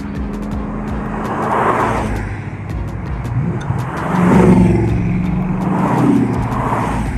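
Car engine running with a steady low note, revving up briefly about four seconds in, over the rush of road noise that swells and fades several times.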